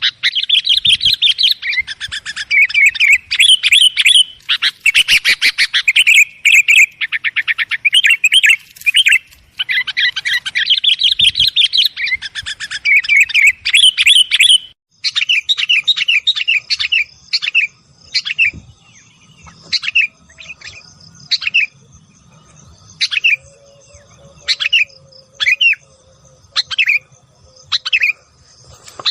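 Sooty-headed bulbuls (kutilang) calling: loud, dense, rapid chattering for about the first half, then after a short break, separate short calls at roughly one a second.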